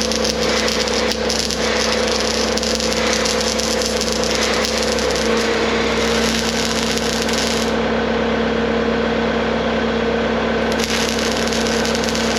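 Electric arc welder running a continuous weld bead on the skid steer's steel attachment mount: a steady crackling arc over a constant electrical hum.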